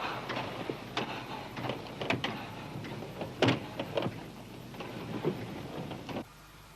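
Irregular metallic clanks and knocks of railway freight wagons over a steady hiss, the loudest knock about halfway through; the sound cuts off suddenly near the end, leaving a faint hum.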